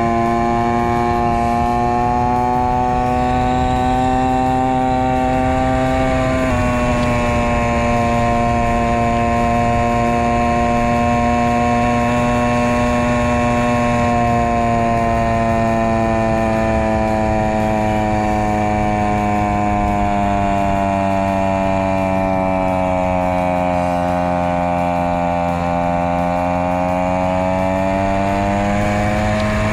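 Honda Monkey Z50J's small single-cylinder four-stroke engine running continuously under load on an uphill climb, sped up to double speed. Its pitch shifts slightly about six seconds in, sags slowly through the second half, then rises again near the end.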